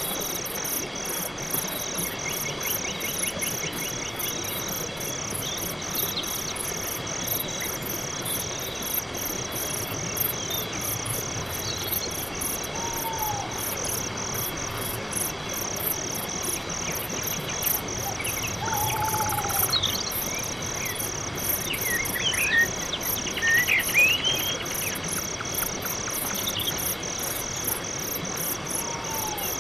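Night-time chorus of crickets chirping in a steady, even pulse. A few short, swooping chirps from another animal break in now and then, mostly in the second half.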